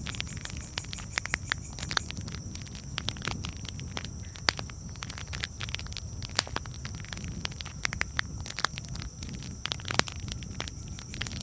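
Campfire crackling: irregular sharp pops and snaps over a low, steady rumble, with two louder pops about four and a half seconds in and near the end.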